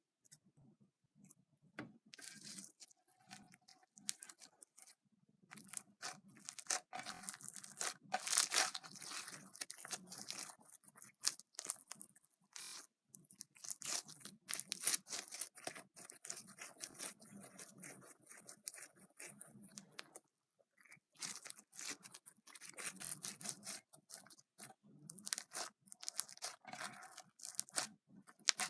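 Slime being squeezed and stretched by hand, making irregular crackling and popping sounds in uneven bursts, with a couple of brief lulls.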